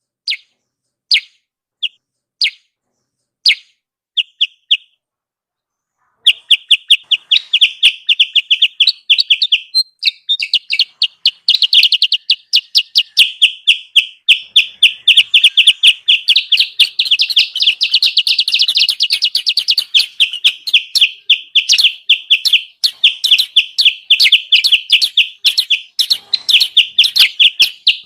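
Kutilang sutra lure-call recording: a string of separate short, high chirps, then after a short pause a long, fast chatter of rapid high notes from about six seconds in.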